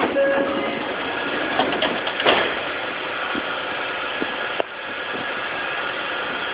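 Inside a Tokyu 2000 series commuter train: a steady rumble of car noise with a few knocks, the sharpest about two seconds in and another near the end.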